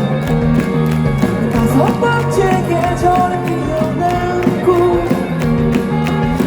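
Rock band playing live between sung lines: a melodic guitar line over bass and a steady drum beat.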